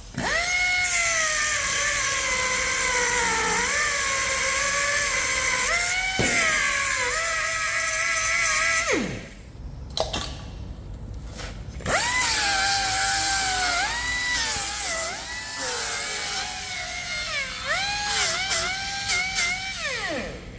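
A power tool's motor spins up and runs with its pitch wavering and dipping as it is loaded, then winds down. This happens twice, with a short pause of a few seconds between the runs.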